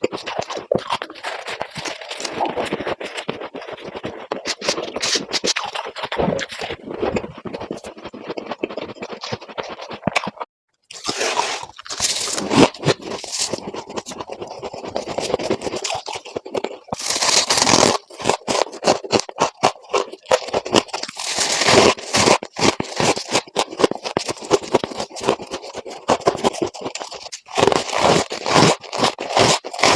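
Frost ice being scraped from a refrigerator freezer and bitten, a dense run of rapid scratchy crunches, with a brief dropout about eleven seconds in.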